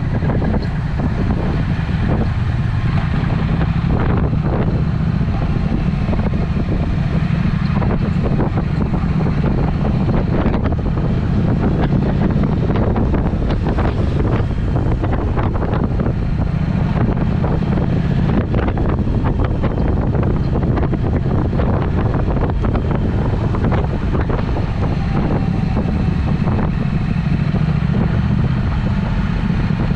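Triumph Speed Twin's parallel-twin engine running through a Vance & Hines exhaust while riding, with wind buffeting the microphone.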